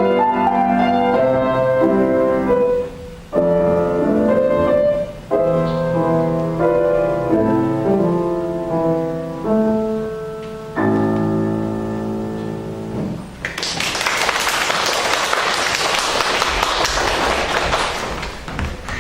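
Solo piano playing the closing bars of a piece, ending on a held chord, followed by audience applause for about five seconds.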